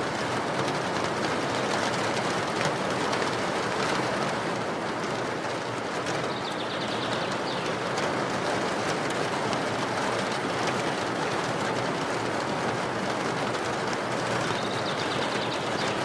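Steady rainfall, an even hiss with scattered drip ticks. A bird chirps faintly twice, about six seconds in and near the end.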